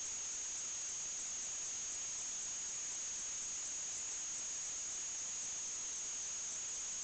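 Steady hiss with a constant high-pitched whine, unchanging throughout: electronic recording noise with no other sound.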